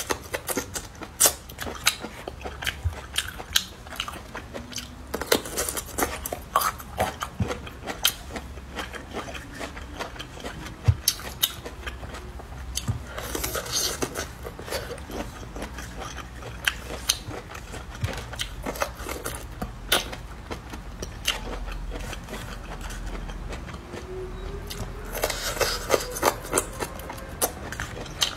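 Close, crisp biting and chewing of hand-peeled bamboo shoots, with many short, sharp crunches spread throughout.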